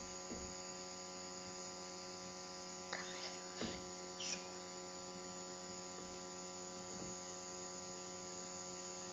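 Faint, steady electrical hum, with a few soft clicks about three to four seconds in.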